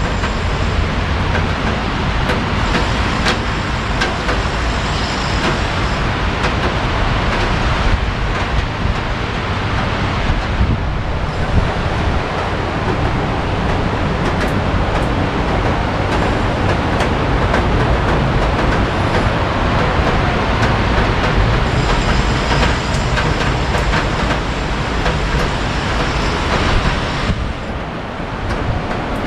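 Steady rain noise mixed with the low rumble of road traffic.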